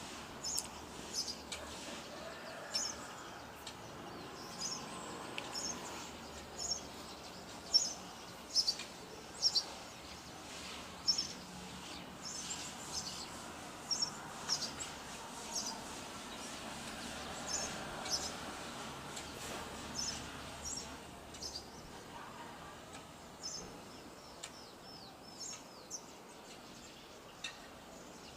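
Small birds chirping, many short high chirps in quick irregular succession that thin out near the end, over a steady hiss of outdoor background noise.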